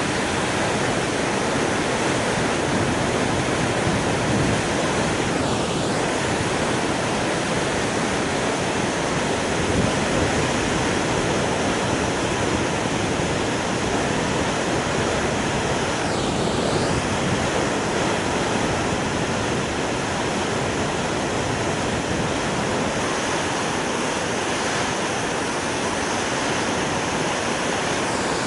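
Waterfall swollen by very heavy rain, its water rushing in a steady, dense, unbroken wash of noise.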